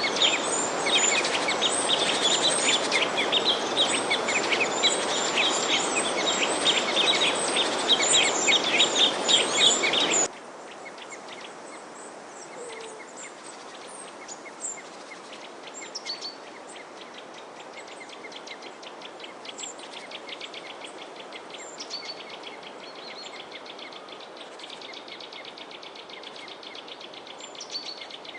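Many small birds chirping densely over a steady hiss, which cuts off abruptly about ten seconds in. Quieter, scattered bird chirps and a faint rapid insect-like trill follow.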